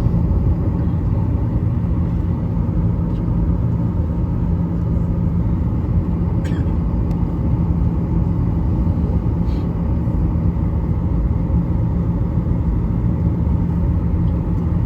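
Airliner cabin noise while the plane sits before taxiing: a steady low rumble with a constant hum, with a couple of faint ticks about six and nine and a half seconds in.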